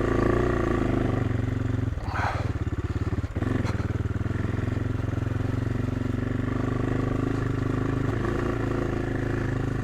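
AJP PR7's single-cylinder engine running steadily under load at low speed on a steep rocky climb, with a brief dip in the engine note about two to three seconds in.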